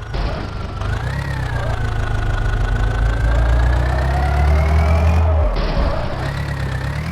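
Heavy diesel machinery engine working under load, its low drone swelling about halfway through and easing off near the end, with a whine that slowly rises in pitch.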